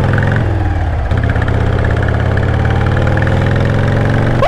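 Motorcycle engine idling steadily, its pitch creeping slightly upward, with a brief falter about half a second to a second in.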